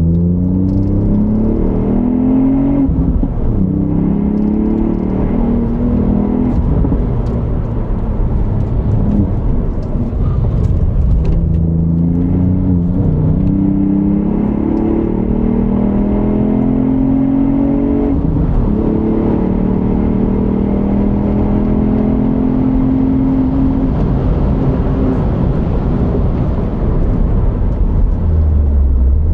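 2020 Ford Fiesta ST's 1.5-litre turbocharged three-cylinder EcoBoost engine with stock exhaust, under hard driving. The engine note climbs in pitch and then drops back sharply about five times, then settles into a low steady rumble near the end.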